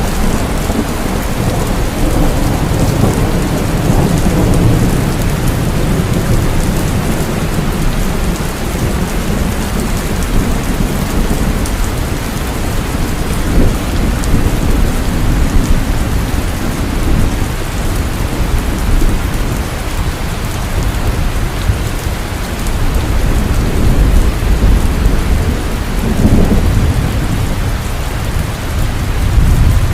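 Heavy rain falling steadily, with low thunder rumbling through it, swelling in the first few seconds and again near the end.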